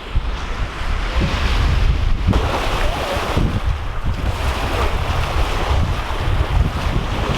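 Wind buffeting the microphone with a heavy, uneven rumble, over the steady rush of waves breaking on a beach.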